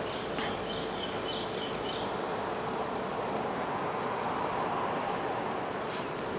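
Microwave oven running steadily, a constant hum and fan noise, while it heats a can of deodorant that is swelling toward bursting.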